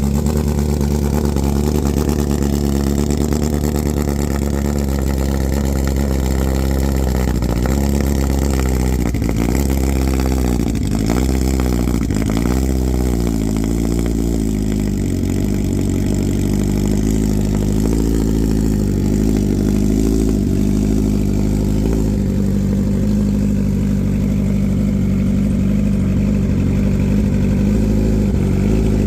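BMW S1000RR's inline-four engine running through a full-system SC Project titanium exhaust: it idles steadily, is blipped in a quick run of short revs through the middle stretch, then settles back to idle.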